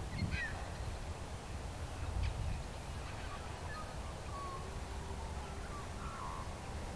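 Faint drone of an airborne electric model airplane's motor and propeller, rising slightly in pitch as the throttle is opened to full power, over wind rumble on the microphone. A couple of short bird calls near the start.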